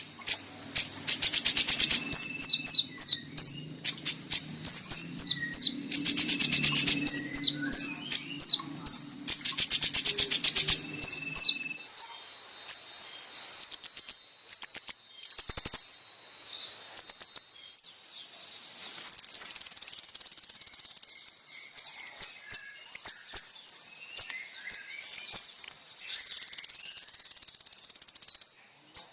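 Kolibri ninja (konin sunbird) song: rapid, very high chirps and twitters with dense rattling trills. In the second half the notes turn sharper and sparser, broken by two long, steady, very high trills.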